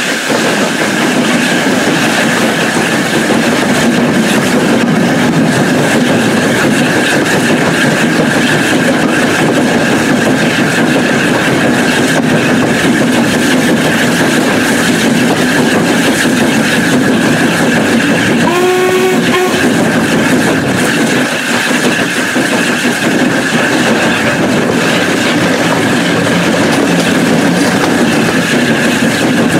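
Train carriage running along the line, heard from an open window: a steady rumble of wheels on the rails with wind noise. About two-thirds of the way through, the locomotive gives one short whistle.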